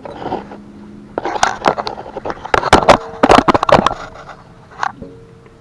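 Rapid scraping and clicking on the mobility scooter's rear hinge as the dirt held by old lubricant is cleaned off. The scrapes come in quick strokes from about a second in, are loudest around the middle, and end with one more near the end.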